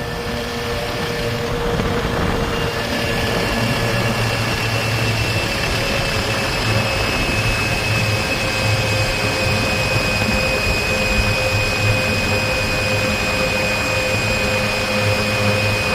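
Scooter running steadily while riding downhill: a continuous motor sound with a steady high-pitched tone that drifts slightly, over a low rumble of wind on the microphone.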